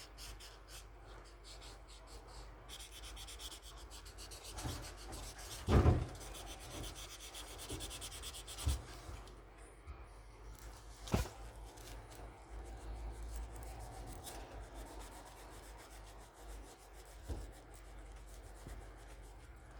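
Paper being handled while making a paper squishy: steady rubbing and rustling, broken by a few sharp knocks, the loudest about six seconds in.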